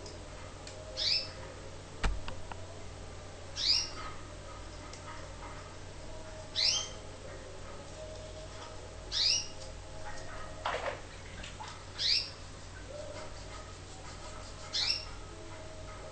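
A caged songbird giving a short call that falls in pitch, repeated six times at intervals of two to three seconds. A single sharp click comes about two seconds in.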